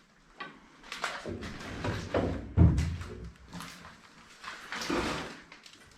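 A heavy door being opened and pushed, creaking, with a heavy thud about two and a half seconds in and another creak near the end.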